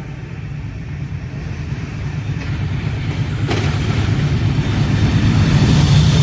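Train with a vintage locomotive rumbling low, growing steadily louder as it approaches.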